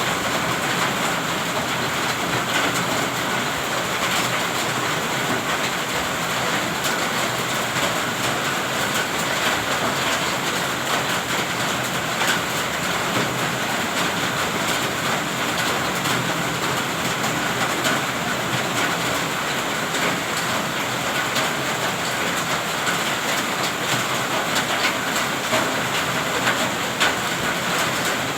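Heavy rain falling steadily: a dense, even hiss peppered with many small ticks of drops striking.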